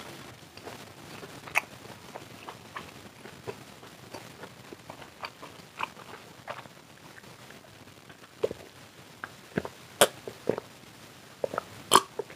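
Close-up chewing of fried chicken: many small wet mouth clicks and smacks, with a few sharper, louder clicks in the last few seconds as beer is drunk from a mug.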